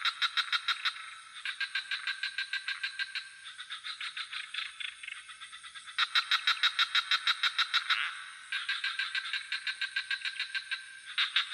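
Frogs calling in rapid pulsed trains of a few seconds each, one bout following and overlapping another, with a steady high-pitched insect trill underneath.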